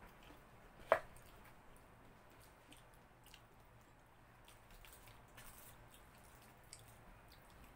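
Faint chewing and wet mouth sounds of people eating fried chicken by hand, with small scattered clicks. One short, sharp sound, much louder than the rest, stands out about a second in.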